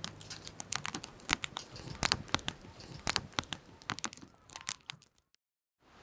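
Wood campfire crackling with irregular sharp pops and snaps, cutting off abruptly about five seconds in.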